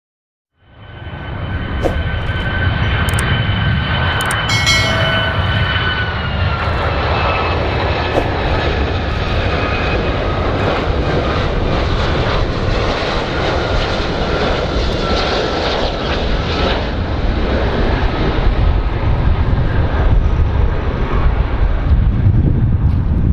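A large airplane's engines running loud: a steady low rumble under a high whine, which dips slightly in pitch about six seconds in. The sound cuts in abruptly under a second in.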